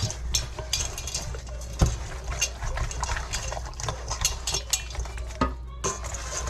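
Kitchen utensils and dishes being handled: an irregular run of clicks, taps and knocks, with one sharper knock just under two seconds in, over a steady low hum.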